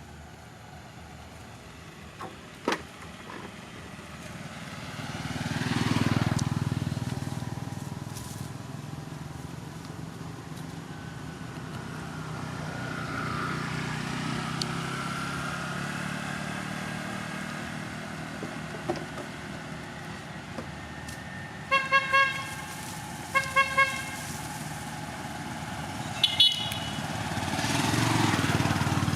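Road traffic: vehicles pass by, each swelling up and fading away, and a vehicle horn toots in two quick sets of short beeps a little past the middle. A brief high chirp follows a few seconds later.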